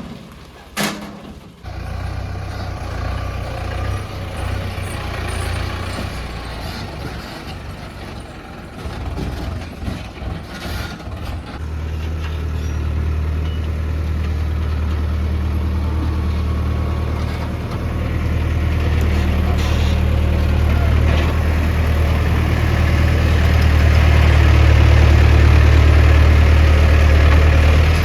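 Heavy diesel engine running steadily. It starts about two seconds in, with a few knocks near the middle, then settles into a deeper, louder note that keeps building towards the end.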